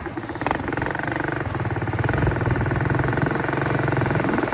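Harvest machinery engine running steadily under load, with a fast rattling pulse over a low hum.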